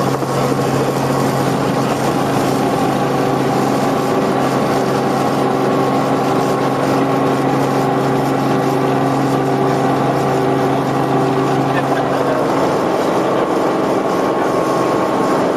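Helicopter running steadily in flight: a constant drone of several held tones over an even rushing noise.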